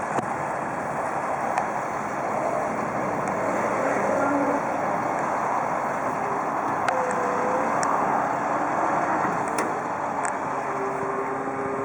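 A truck engine running steadily, with a few faint clicks.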